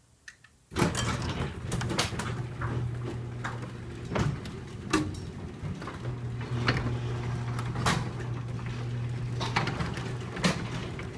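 Garage door starting up about a second in and running with a steady low hum, with repeated clanks and rattles as the door moves along its tracks.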